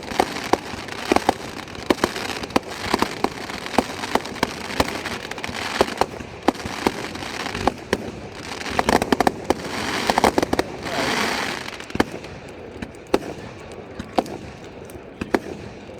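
Fireworks going off in a rapid run of sharp bangs and crackles, with a dense flurry and a hissing swell between about nine and twelve seconds in, then fewer, scattered bangs.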